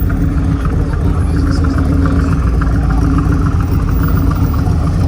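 A car engine running steadily at idle, a loud low rumble with a constant hum.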